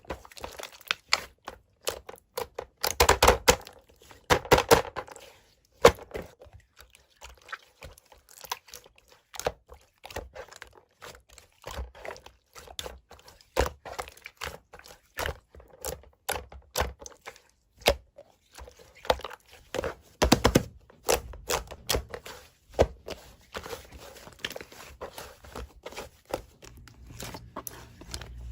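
Small objects being handled close to the microphone: a run of irregular taps, clicks and knocks mixed with crinkling, with louder clusters around three to five seconds in and again about twenty seconds in.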